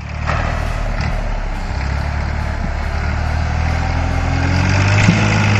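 A heavy vehicle's engine running, its pitch rising slowly through the second half as it revs up.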